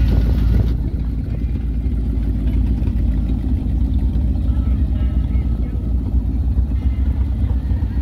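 Hot rod roadster's engine running with a steady low rumble as the car drives slowly off; its higher tones fall away about a second in and the deep rumble carries on.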